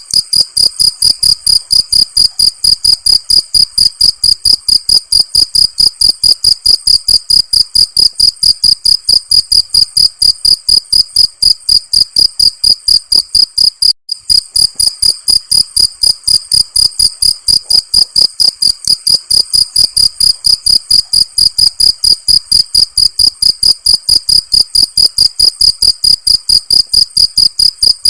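Crickets chirping in a steady, even rhythm of about four high-pitched chirps a second, with a single brief break about halfway through.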